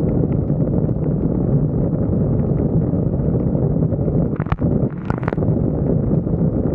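Wind buffeting a vehicle roof-mounted camera's microphone over a steady low rumble and hum of the vehicle, with scattered light ticks. A few sharper clatters come about four and a half to five and a half seconds in.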